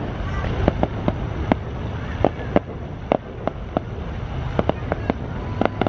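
Aerial fireworks bursting in a dozen or more sharp bangs at irregular intervals, over a steady low background rumble.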